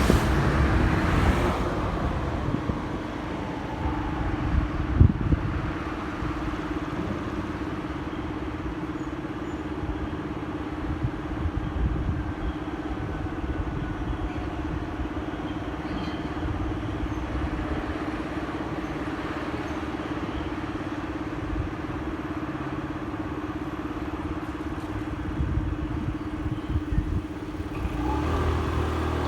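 Motorcycle engine idling steadily while stopped, after a couple of seconds of louder riding noise as the bike slows. About a second before the end the engine revs up, rising in pitch as the bike pulls away.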